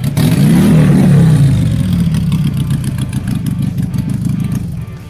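Motorcycle engine with a loud aftermarket exhaust, revved once so the pitch rises and falls, then running on steadily until it drops away near the end.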